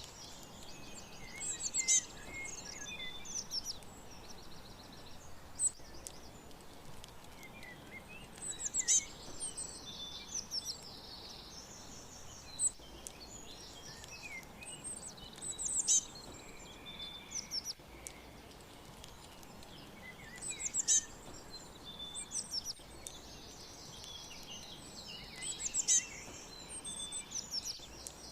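Songbirds chirping and trilling, with high, quick notes coming in groups every few seconds over a faint steady background hiss.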